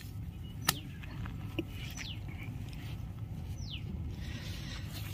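A bird calling twice with short falling whistles, about two seconds and three and a half seconds in, over a low steady outdoor rumble, with a sharp click near the start.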